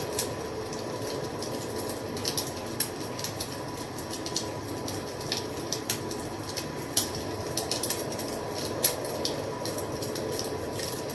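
Wood fire crackling: a steady low rush of burning with irregular sharp pops and snaps throughout, a few of them louder.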